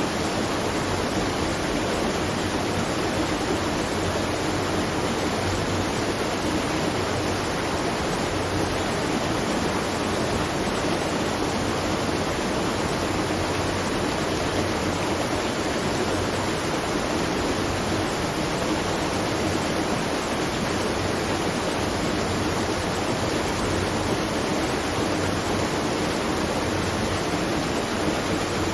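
Steady, unbroken rush of water at a watermill, like water pouring over a waterfall or weir.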